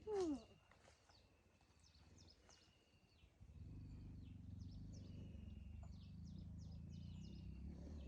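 Faint birds chirping over and over, with a short, loud call falling in pitch right at the start. A low, steady rumble comes in about three and a half seconds in.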